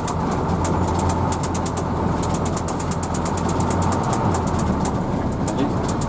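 Hino AK bus engine running steadily, heard inside the cabin as a low hum, with a fast high-pitched ticking of about five or six ticks a second over it.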